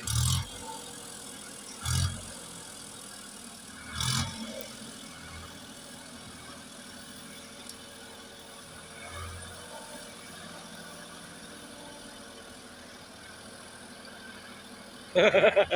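Tractor engine running steadily at low revs during a reversing manoeuvre, with three short thumps about two seconds apart at the start.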